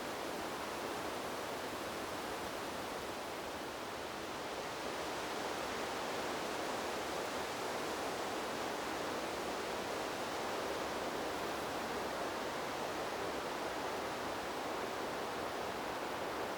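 Wind blowing through trees: a steady, even rushing hiss that swells a little about five seconds in.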